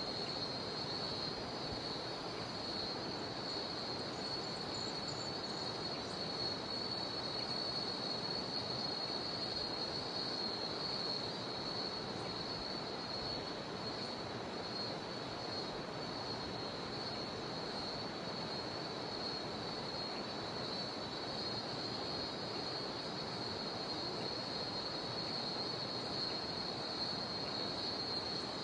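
Cicadas droning in a steady high-pitched chorus over the even rush of river water.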